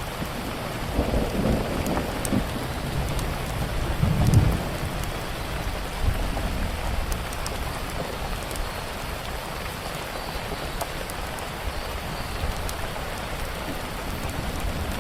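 Steady rain with a low rumble of thunder that swells over the first few seconds, loudest about four seconds in, then fades. Scattered small sharp crackles from a wood fire sit over the rain.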